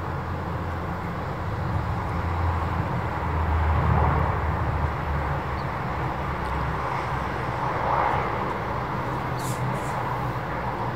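Dash 8-300 turboprop aircraft engines heard from the airport perimeter, a steady drone that swells briefly twice, about four and eight seconds in.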